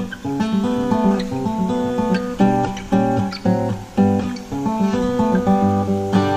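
Background music of strummed acoustic guitar with a steady, regular rhythm.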